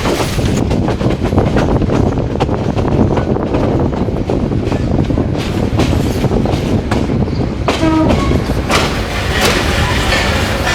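Upakul Express passenger train running along the track: a steady rumble with wheels clicking over the rail joints. A short pitched call or tone sounds briefly about eight seconds in.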